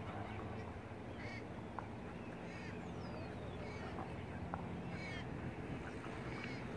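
Birds calling: about five short arched calls spaced a second or so apart, and a falling whistle about three seconds in, over a steady low background rush.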